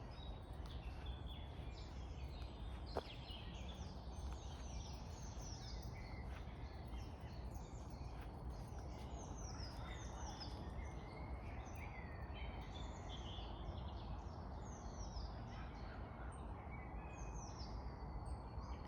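Spring woodland birdsong: many short, falling chirps and whistles from several birds, over a low steady rumble. A single sharp click about three seconds in.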